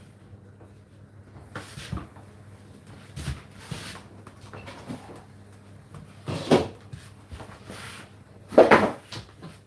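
Scattered household knocks and thumps, like cupboard doors or things being handled, the loudest pair near the end. Beneath them is a faint steady low hum from the running dishwasher.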